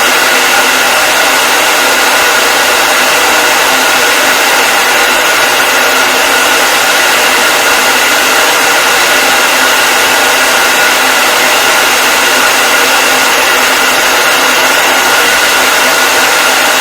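Hair dryer running steadily, a loud, even rush of air with a faint high whine from its motor and fan.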